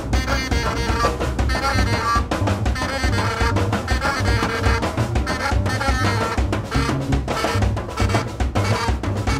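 Free-improvised jazz trio playing: busy, dense drum kit strokes over a bass line, with a saxophone's wavering lines on top.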